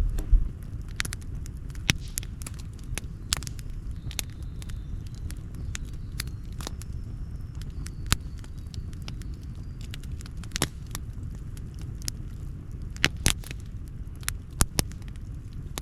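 Wood campfire crackling, with irregular sharp pops and snaps over a steady low rumble. The loudest pops come about half a second in and in a cluster near the end.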